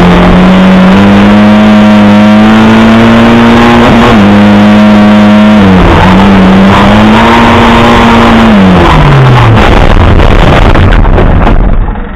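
Lada 2107 rally car's four-cylinder engine, heard loud inside the cabin, held at high revs on the stage. The engine note dips briefly at about four and six seconds as it changes gear, then the revs fall away about nine seconds in as the car slows. The overall sound drops off sharply near the end.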